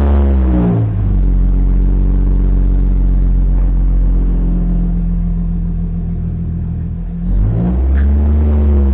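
Infiniti G37S coupe's 3.7-litre V6, fitted with an Exotic Speed cat-back exhaust and high-flow cats, running loudly with an exhaust leak. The revs drop to a steady idle about a second in, then one quick rev blip rises and falls near the end.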